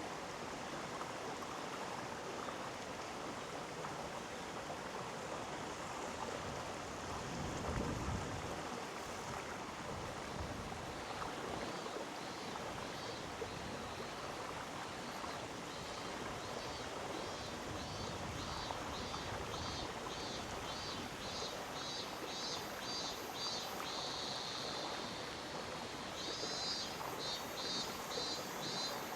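Mountain stream flowing in a steady rush of water. From about a third of the way in, a high chirping call pulses a few times a second over the water, growing louder near the end.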